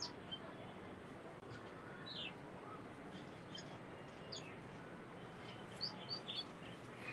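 Birds chirping faintly: a few short, scattered high chirps over a steady background hiss.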